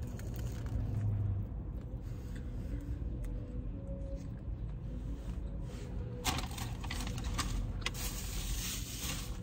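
Quiet chewing and mouth sounds of someone eating a seaweed-wrapped triangle kimbap, with scattered small clicks and a few brief rustles in the second half, over a low steady rumble.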